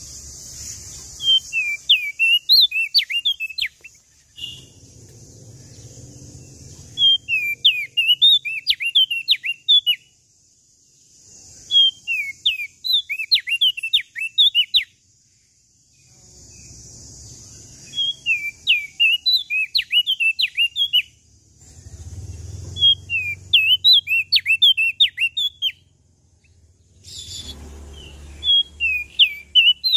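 Small songbird, a prenjak daun lombok, singing six bursts of fast, sweeping chirps, each lasting two to three seconds, with short pauses between them. A steady high hiss and a faint low rumble fill the gaps.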